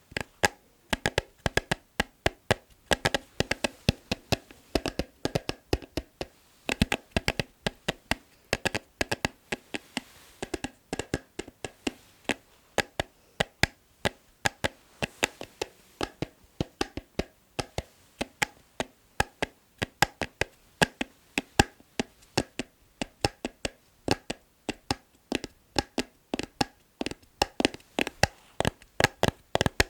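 Rhythmic fingertip tapping on an object, fast runs of sharp taps several times a second.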